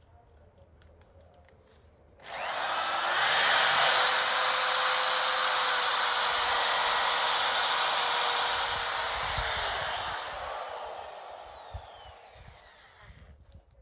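A handheld electric power tool switched on and run at steady speed for about seven seconds, then released, its motor spinning down with a falling pitch until it stops.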